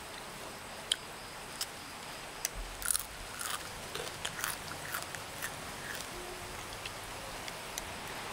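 Crunching and chewing of crisp deep-fried scorpion, with sharp cracks of the shell and clusters of crunches, busiest from about two and a half to five and a half seconds in.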